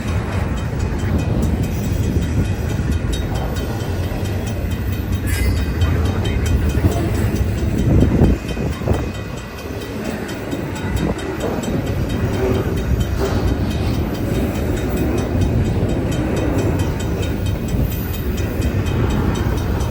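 Intermodal freight train rolling past on the rails: a steady rumble of wheels and cars, with one heavier thump about eight seconds in.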